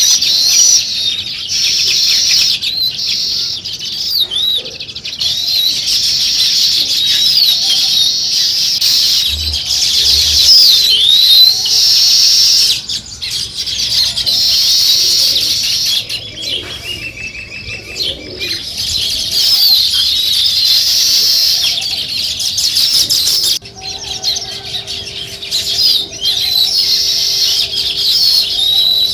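A flock of sparrows chirping continuously, many short overlapping calls at once, with brief lulls.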